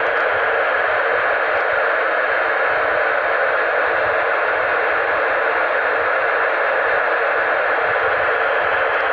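Steady FM radio hiss from a 2-metre VHF transceiver tuned to a repeater channel between transmissions, an even static with no voice in it.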